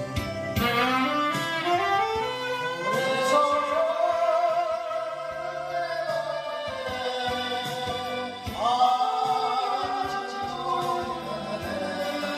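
Music: a song with a singing voice that glides between long held, wavering notes over an instrumental accompaniment.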